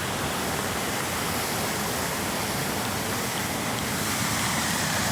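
Waterfall on the young River Severn, a steady, loud rush of falling water.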